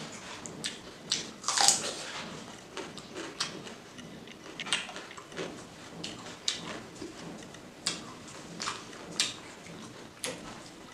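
Close-up chewing of pork and rice: irregular wet smacks and clicks of the mouth, several a second, the loudest about two seconds in.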